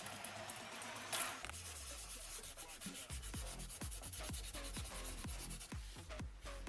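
Sandpaper rubbing on a small part of the scale model, with a sharp scrape about a second in. Electronic music with a steady beat of about three thumps a second comes in over it around the middle.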